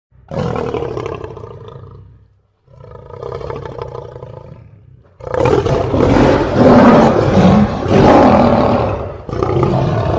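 Lion roaring: two separate roars, then a louder, longer stretch of roaring about five seconds in, and another roar starting near the end.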